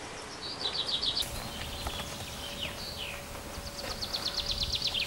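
Small birds singing: rapid high trills of quickly repeated notes and short downward-slurred whistles, over a low outdoor rumble, with a faint steady hum starting about a second in.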